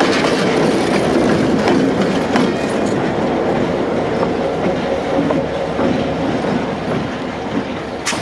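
Train passing close by, its wheels clicking over the rail joints, the sound fading as it moves away. One sharp click comes near the end.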